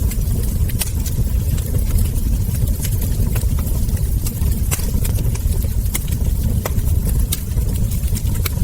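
Wood fire crackling, with frequent sharp, irregular pops and snaps over a steady low rumble.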